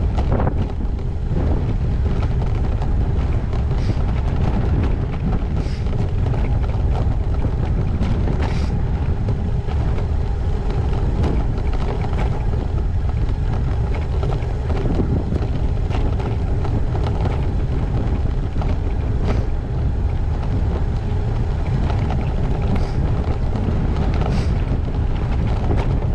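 Wind buffeting a GoPro camera's microphone while a gravel bike is ridden, over a steady low rumble. A handful of short sharp rattles or knocks come a few seconds apart, typical of the bike jolting over bumps.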